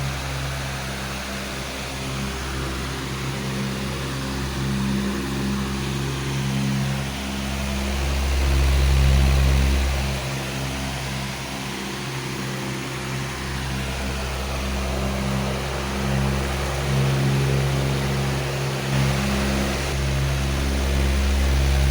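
Powerful electric fan running steadily: a low motor hum with several steady tones under an even rush of air, its level swelling and easing slowly.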